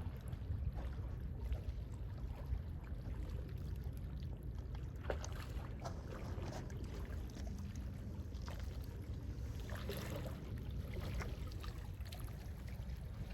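Calm sea waves washing and lapping, with small splashes every second or two over a steady low rumble.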